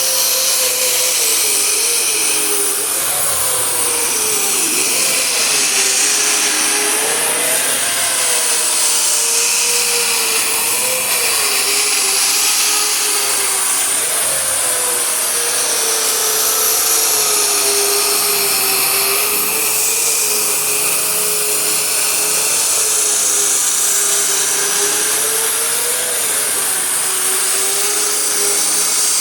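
Power grinder with a 36-grit abrasive disc stripping paint from a car hood. The motor whine runs continuously with its pitch wavering slightly as the disc works, over a steady harsh abrasive hiss.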